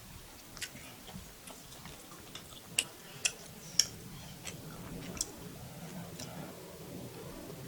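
Close-miked eating of spicy beef fried rice: irregular wet mouth clicks and smacks over soft chewing, with three sharper clicks around the middle.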